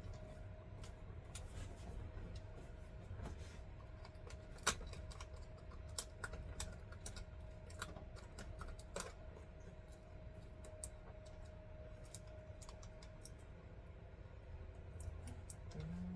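Scattered light clicks and taps of hands handling parts and materials, irregular and faint, the sharpest about a third of the way in, over a faint steady hum.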